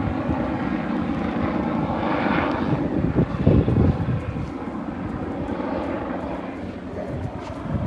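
Helicopter flying past, its engine and rotor rumble loudest about three to four seconds in and then slowly fading as it moves away.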